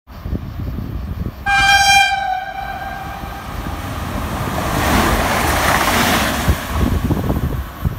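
Sangritana electric multiple unit sounds one short horn note about a second and a half in, then runs past at speed. A rushing noise of wheels and air with a low rumble builds to a peak as the train goes by.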